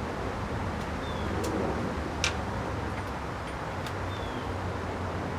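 A few sharp clicks as small metal parts of an outboard motor's throttle linkage are handled during reassembly. The loudest comes a little over two seconds in, over a steady background hiss and low hum.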